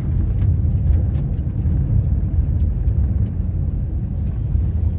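Steady low rumble of a car on the move, mixed with wind noise, with a few faint sharp ticks over it.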